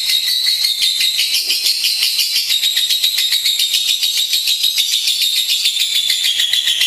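Lovebird singing a long, unbroken, rapid chattering trill, many sharp high-pitched notes a second.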